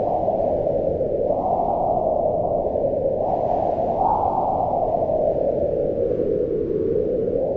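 Strong wind blowing in a steady deep rush, swelling in gusts about a second in and again about four seconds in.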